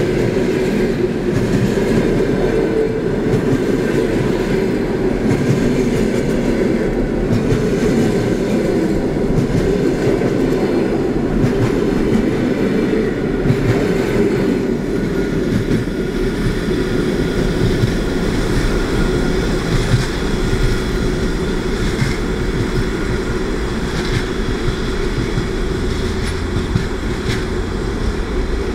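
Passenger train coaches passing close at speed: a steady rolling rumble of steel wheels on rail, with faint irregular clicks as the wheels cross rail joints.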